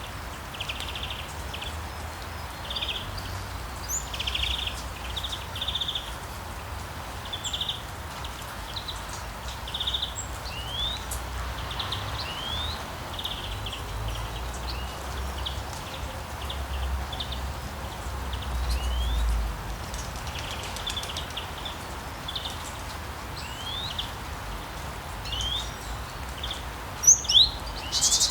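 Small birds calling and singing: repeated buzzy trills and quick rising chirps, over a steady wash of water noise. Two sharp, louder high calls come near the end.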